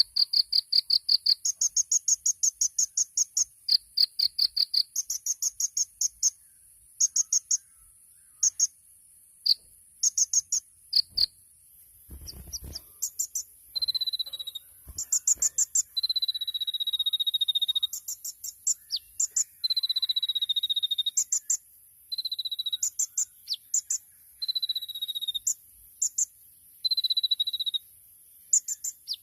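Kolibri ninja sunbird singing a rapid 'tembakan' song: quick bursts of high, sharp repeated notes and trills. From about halfway on these alternate with repeated, slightly falling whistled notes. A steady high hiss runs beneath.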